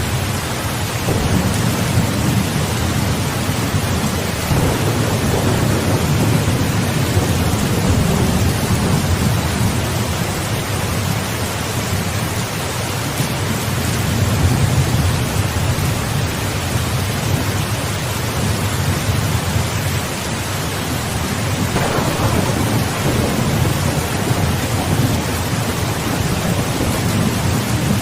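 Steady heavy rain with rolling thunder rumbling low beneath it, swelling about four seconds in and again with a sharper, louder peal about three-quarters of the way through.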